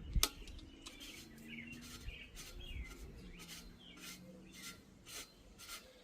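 Birds chirping in the background, with a sharp knock just after the start and, from the middle on, a run of short clicks about two or three a second.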